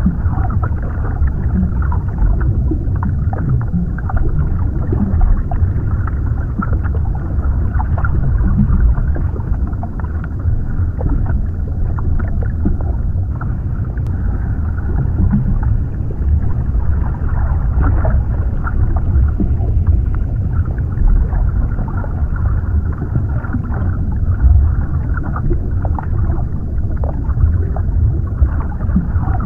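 Underwater ambience: a steady, muffled low rumble with faint scattered clicks and crackles through it.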